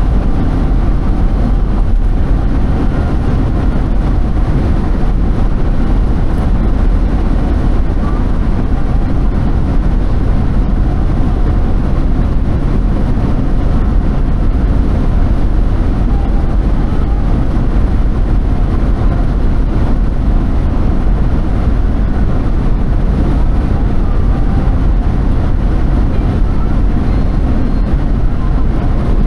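Steady low rumble of a vehicle on the move, engine and road noise with no change.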